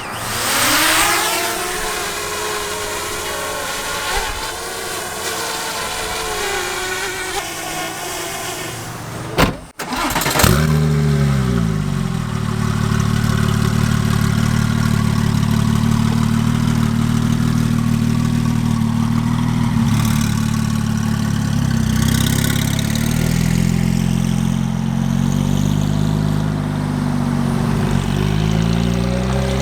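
Porsche 996 911 Turbo's twin-turbo flat-six through a titanium X-pipe exhaust, heard inside the cabin: the engine pulls up through the revs, breaks off sharply about ten seconds in, then settles into steady cruising with a heavy low exhaust drone, the drone that makes it too loud with the windows shut.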